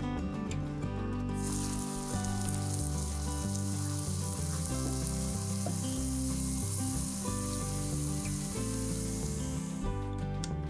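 Leeks sizzling as they fry in a pan, an even hiss that starts about a second in and cuts off suddenly near the end, over background music with sustained notes.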